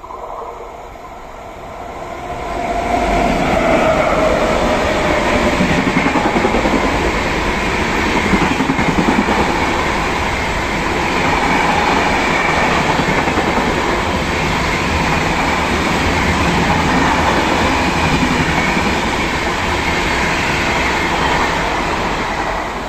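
A fast train running through a station at speed without stopping. Its loud rushing rumble builds about two and a half seconds in, holds steady, and fades near the end, with a tone sliding down in pitch during the first few seconds.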